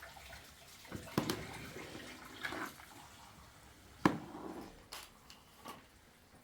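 Scattered sharp knocks and clicks, about six in a few seconds, with some faint rustling between them.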